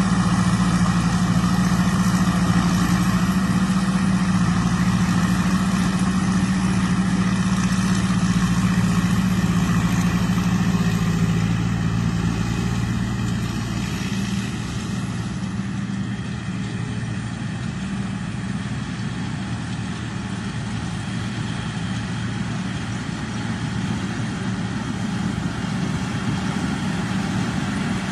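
Thai Charoen Kan Chang combine harvester's engine running steadily with a low hum, growing quieter a little past halfway through.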